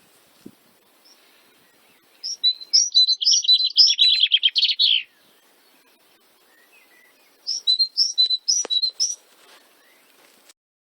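A songbird singing two phrases of quick, high chirps, the first about three seconds long and running into a rapid trill, the second shorter, a couple of seconds later.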